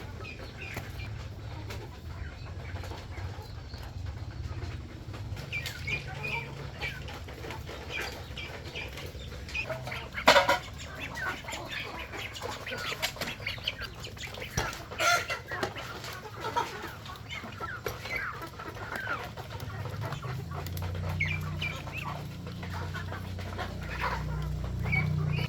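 Scattered short animal calls, like farmyard fowl clucking, with a loud sharp sound about ten seconds in. A low steady hum runs underneath and grows louder near the end.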